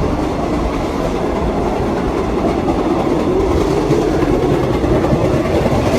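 New York City subway train running at speed, heard from on board: a steady rumble of wheels on rail and car body.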